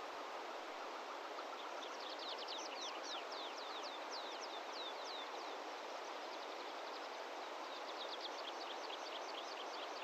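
Outdoor mountain ambience, a steady hiss, with a small bird twittering in quick, high, falling chirps from about two seconds in until near the end.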